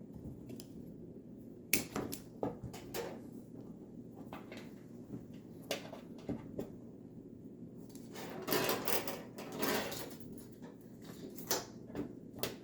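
Scattered small clicks and taps of hands working small metal and plastic parts of a car aerial mount, with a longer stretch of scraping and rustling about eight to ten seconds in.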